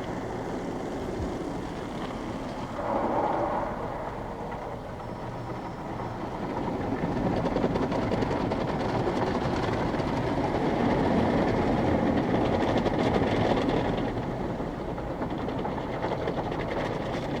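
Car wash equipment running: a steady rushing, churning noise that swells briefly about three seconds in and grows louder from about seven seconds in.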